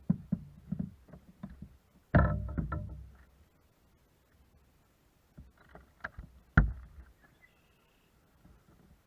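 Knocks and thumps against a kayak hull: a run of light knocks, a heavy thump about two seconds in, a few light taps, then another sharp thump a little past the middle.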